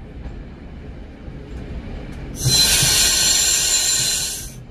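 Class 108 diesel multiple unit running with a low rumble. About halfway through, a loud hiss of rushing air starts suddenly from the unit, lasts about two seconds and cuts off.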